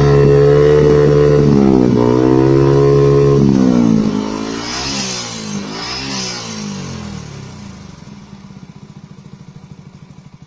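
Yamaha R15 v3's 155 cc single-cylinder engine revving through a racing exhaust muffler: held at high revs with one dip and rise, then dropping with two quick throttle blips and settling to an even idle that grows quieter.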